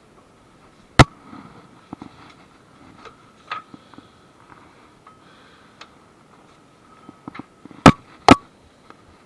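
Sharp knocks and clanks of hand work on a car, one loud knock about a second in and two more close together near the end, with lighter taps between, over a faint steady high whine.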